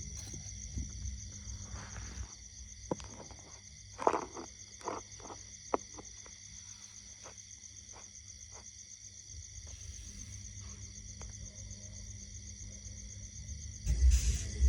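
Insects trilling steadily in a high, finely pulsing chorus. A few sharp clicks come about four to six seconds in, and a loud low rumble starts just before the end.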